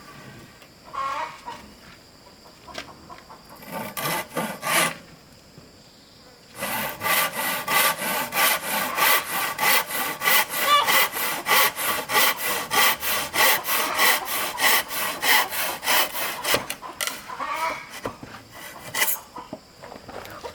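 Hand saw cutting through wood in quick, even back-and-forth strokes, about four or five a second, for some ten seconds from about a third of the way in, after a few scattered strokes.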